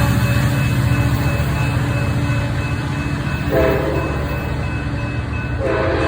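A train's diesel locomotive running with a steady low rumble, sounding its multi-tone horn: a short blast about three and a half seconds in, then a longer one starting near the end.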